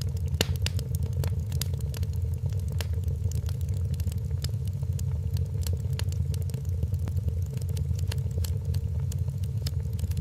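Wood fire crackling in a fireplace: frequent small sharp pops and snaps at irregular intervals over a steady low rumble.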